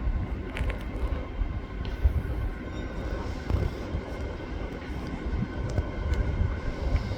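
Diesel passenger train at the platform, its engines giving a steady low rumble with a few light clicks.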